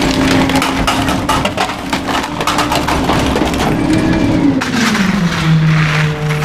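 Garbage truck's hydraulic packer crushing bulky waste, with wood cracking and splintering over the steady whine of the engine-driven hydraulics. The whine drops in pitch about four to five seconds in.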